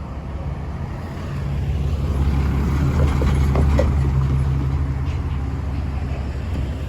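A motor vehicle passing with a low engine rumble. It swells from about a second in, is loudest midway, then fades.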